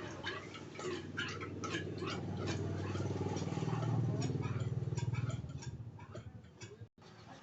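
Quick irregular clicks and clinks of metal parts being handled while a scooter shock absorber is worked on, over a low hum that swells in the middle. It cuts off abruptly near the end.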